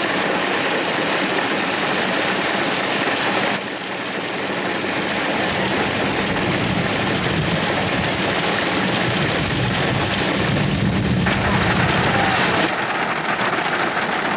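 Heavy rain pouring down steadily, a dense hiss of downpour. A low rumble swells through the middle and fades again, thunder from the passing storm.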